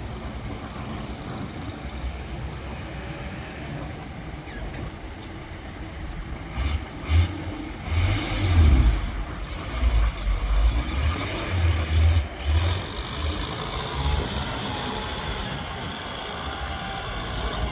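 Heavy vehicle engines running, rising in loud low surges of revving between about 7 and 13 seconds in, as they work against deep mud.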